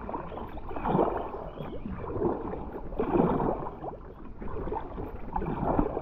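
Kayak paddle strokes: the blades dip and pull through the creek water about once a second, each stroke a swell of splashing and gurgling.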